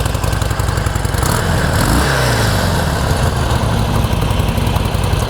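2012 Harley-Davidson Sportster 1200 Custom's air-cooled 1200 cc V-twin running on its factory exhaust, pretty quiet and free of any abnormal engine noise. The engine speed rises about two seconds in and then holds steady.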